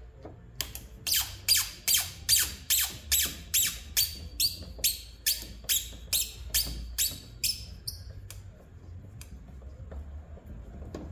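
Phillips-head screw squeaking with each turn of the screwdriver as it is backed out of the bumper light on a 1997 Toyota Corolla. The squeaks are sharp and high, come in a quick run of about two to three a second, and stop about eight seconds in.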